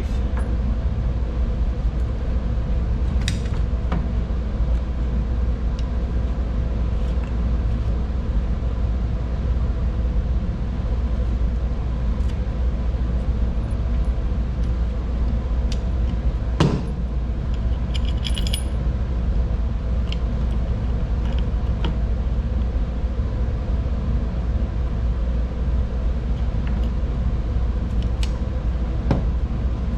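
Metal hardware and hand tools clinking and knocking now and then, with a louder knock about 17 s in, while the sharpening jig is bolted to a workbench, over a steady low hum.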